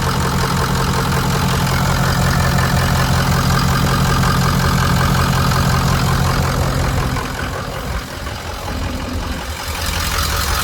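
Ford 6.0L Power Stroke V8 turbo diesel idling steadily, heard at the front of the engine with the oil cap off. It goes somewhat quieter for a couple of seconds about seven seconds in, then returns to the same level.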